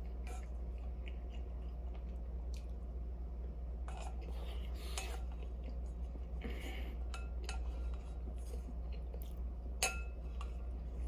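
Tableware clinking and tapping against dishes during a meal, in scattered light clicks over a steady low hum, with one sharper clink near the end.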